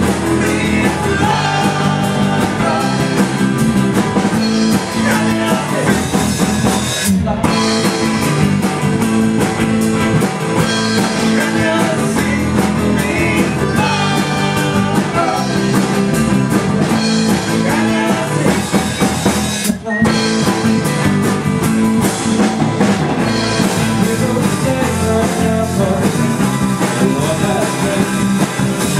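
Live rock band playing, with drum kit, electric guitar and singing, and brief breaks in the sound about a third of the way in and about two-thirds in.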